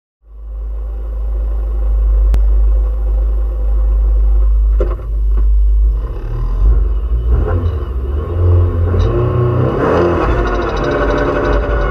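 In-cabin sound of a Peugeot 206 RC rally car's 2.0-litre four-cylinder engine. It holds a steady low rumble for the first few seconds, with a couple of knocks about five seconds in. Then it revs up and pulls away through the gears, the pitch climbing and dropping back at each shift.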